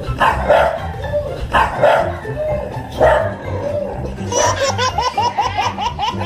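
A dog barks three times, about a second and a half apart, over background music. Near the end comes a quick run of short high-pitched calls, about six a second.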